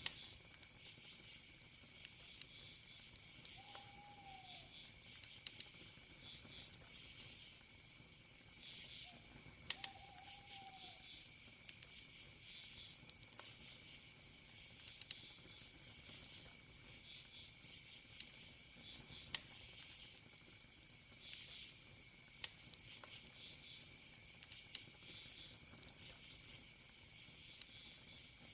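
Campfire crackling with scattered sharp pops over a steady chorus of crickets. A short arched call sounds twice, about four and ten seconds in.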